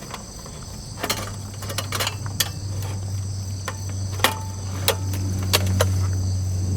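Crickets chirping steadily, with scattered sharp clicks and taps over a low steady hum that grows slowly louder.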